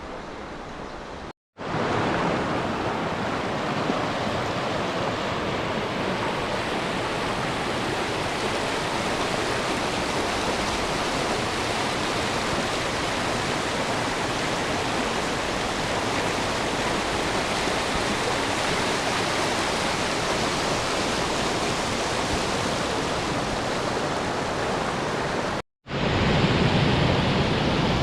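Steady rushing water, a loud, even roar, broken by two brief cuts to silence about a second and a half in and near the end.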